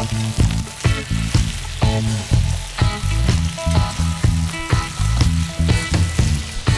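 Scallops and diced onions sizzling in hot fat on a grill's flat hotplate and in a small pan, under background music with a steady beat and bass line.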